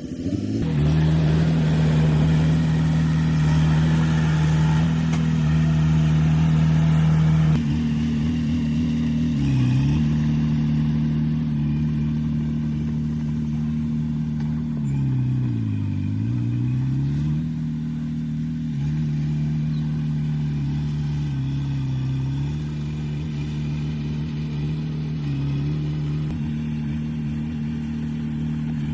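Heavy diesel engine of earthmoving machinery starting to work hard a moment in and running at high revs, with a rushing noise over it for about the first seven seconds. Its pitch then sags and recovers several times, dipping deepest about sixteen seconds in, as the engine takes load.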